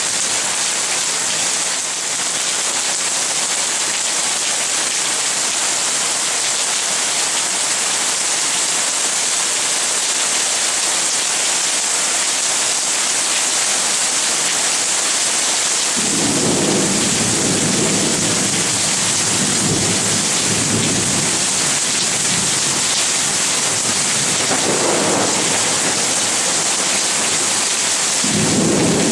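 Steady heavy rain hissing down. About halfway through, low thunder begins rumbling for several seconds; it rumbles again briefly later and comes back louder near the end.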